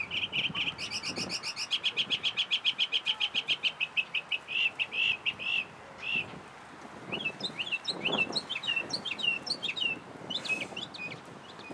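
Songbird singing: a fast trill of repeated high notes, about nine a second, that slows to a few separate notes about five seconds in, followed by a run of short, quick chirps.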